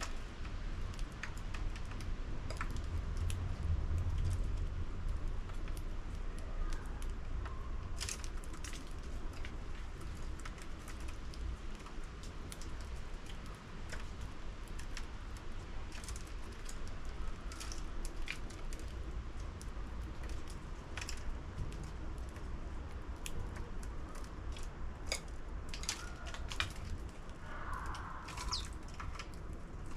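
Irregular sharp taps and clicks of sparrows pecking at seed in a 3D-printed plastic bird feeder, over a steady low rumble.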